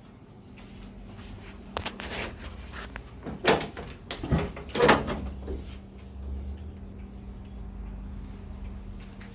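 A few knocks and bumps of something being handled, the loudest about three and a half and five seconds in, over a faint steady hum.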